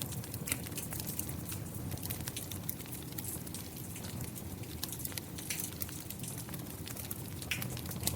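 Steady rain falling, with a fire crackling and popping in many sharp, irregular snaps.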